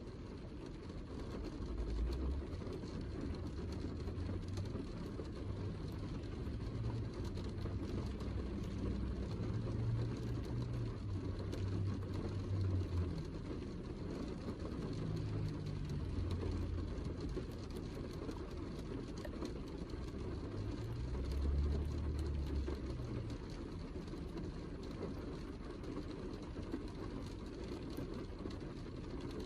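Heavy rain falling steadily, with a low rumble that swells and fades underneath, loudest about two seconds in and again about twenty-one seconds in.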